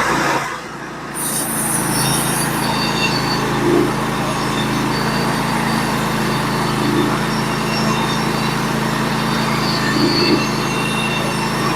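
Norwood HD36v2 portable band sawmill running through a cut. The engine holds steady under load while the band cuts through the log with a thin, high squealing whine. The sound dips briefly and then comes up to a steady run about a second in.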